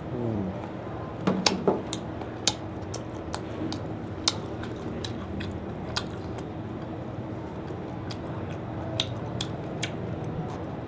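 A person biting and chewing crispy deep-fried squid rings glazed in fish sauce, with sharp, irregular crunches through the chewing.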